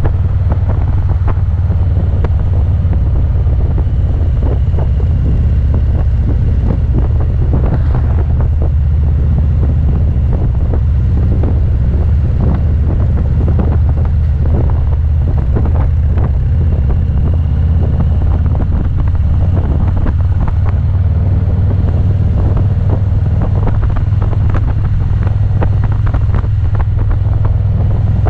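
Motorcycle riding at steady speed: engine running with a constant low rumble under heavy wind buffeting on the microphone.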